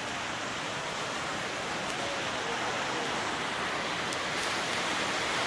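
Steady hiss of heavy rain falling, getting slightly louder toward the end.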